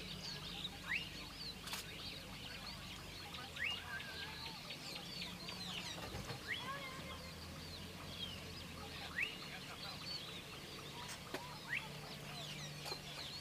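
Many birds chirping and calling: a steady scatter of short, quick upward-sweeping calls, over a faint low steady hum.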